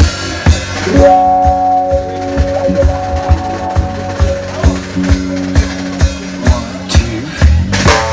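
Rock band playing an instrumental passage: a drum kit keeps a steady beat about twice a second under bass and held chords.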